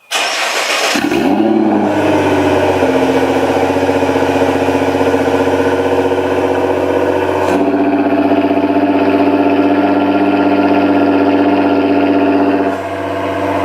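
Nissan GT-R R35's twin-turbo V6 with Armytrix decat straight pipes cranking and catching, flaring up in pitch about a second in, then settling into a steady, smooth idle. The exhaust valves are closed. The tone shifts about halfway through and drops a little in level near the end.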